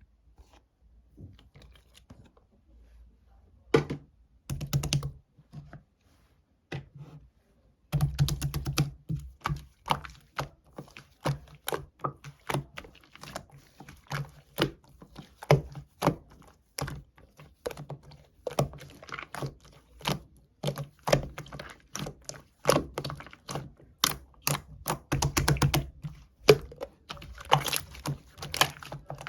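A rapid, irregular series of light taps and clicks, sparse at first and coming several a second from about eight seconds in.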